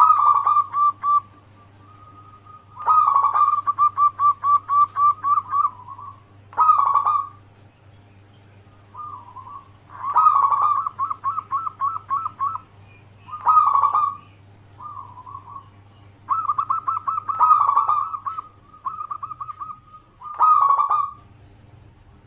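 Zebra dove (perkutut) singing its cooing song: about ten phrases of rapid staccato notes, each lasting from under a second to about three seconds, with short pauses between.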